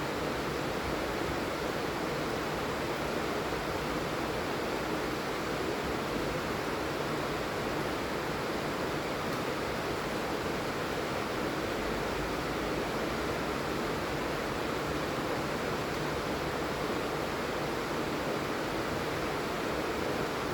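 Heavy rain falling steadily, a dense even hiss with no individual drops standing out.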